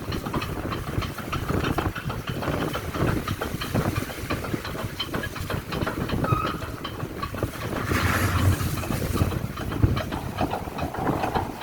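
Torpoint chain ferry hauling itself along its chains: a continuous clanking rattle of chain links running through the ferry's machinery over a low rumble, with a louder rushing noise about eight seconds in.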